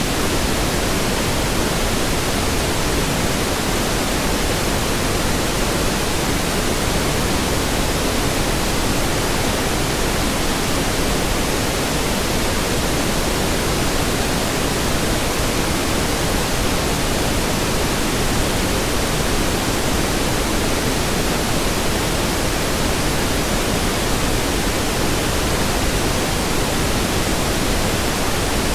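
Steady pink noise: an even hiss across all pitches, fuller in the low end, with no change in level.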